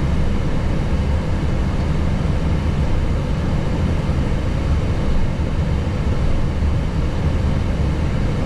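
Steady flight-deck noise of an Airbus A321neo taxiing after landing: a continuous low rumble with an even hiss above it.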